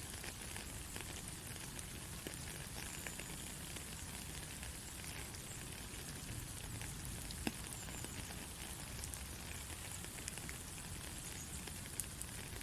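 Gentle steady rain falling on a surface, an even hiss with scattered drops pattering, and a few sharper single drips standing out about halfway through and near the end.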